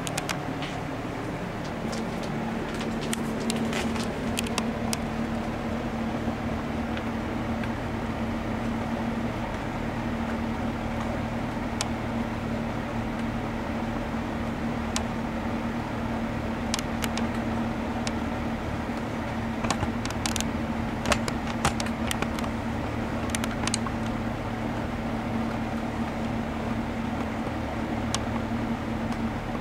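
Vintage K-mart three-speed box fan with metal blades and a Westinghouse motor running: a steady rush of air with a motor hum that settles in about a second in, and scattered light ticks.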